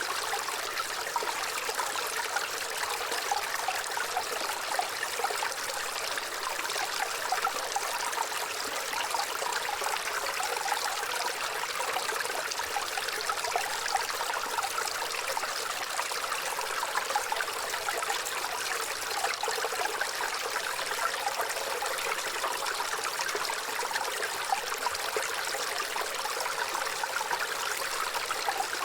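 Waterfall: water falling and splashing steadily, an even rushing hiss with little deep rumble.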